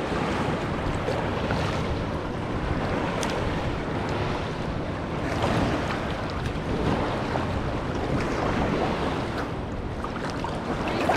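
Ocean surf washing in the shallows, a steady wash of noise that swells slightly about five seconds in, with wind buffeting the microphone.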